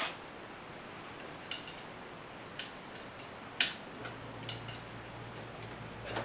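Scattered light clicks and taps of a hand tool on a mower-deck blade spindle as packed grass and dirt are picked out of it, the sharpest click about three and a half seconds in.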